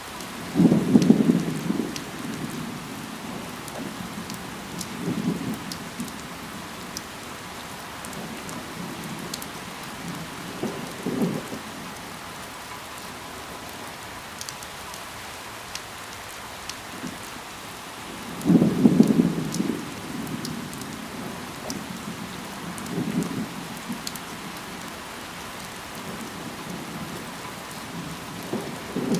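Steady rain falling on leaves, a constant hiss with small drop ticks. Every few seconds a short low rumble rises over it. The loudest rumbles come near the start and about two-thirds of the way through.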